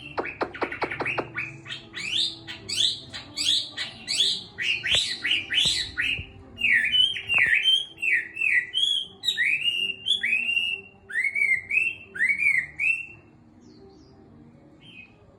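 Caged Chinese hwamei (melodious laughingthrush) singing, a wild-caught bird coming back into song after its moult. It opens with a quick run of clicks, then gives loud whistled phrases that slide up and down, turning into repeated upslurred whistles about twice a second, and falls silent near the end.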